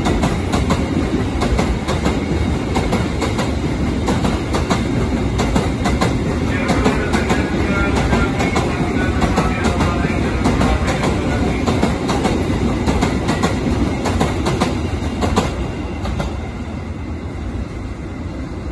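Empty container flat wagons of a freight train rolling past, their wheels clacking rapidly over the rail joints over a steady rumble. A faint high squeal joins in around the middle, and the sound eases off near the end as the last wagons pass.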